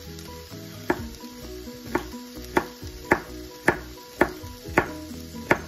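Knife chopping celery on a cutting board, about eight cuts roughly half a second apart, over the steady sizzle of sausage and onion frying in a pan.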